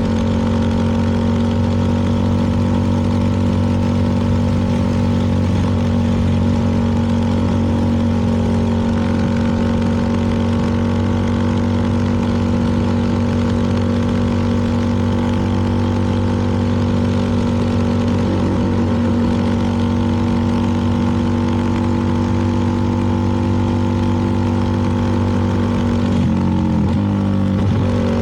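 CFMoto 300NK's single-cylinder engine running at steady cruising revs under riding wind and road noise. Near the end the engine note briefly drops and climbs back.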